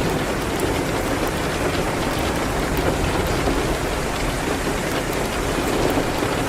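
Steady rain falling hard, with faint small ticks scattered through it.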